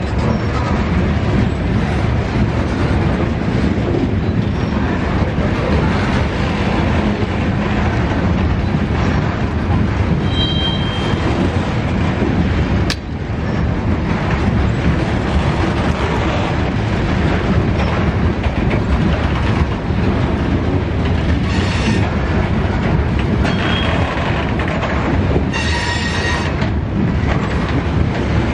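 BNSF freight cars rolling past in a steady, loud rumble of steel wheels on rail, with short high-pitched wheel squeals a few times, around the middle and near the end.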